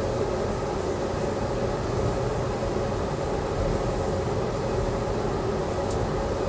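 Steady rumble and hum of a moving Amtrak passenger train, heard from inside the car, with one brief faint click near the end.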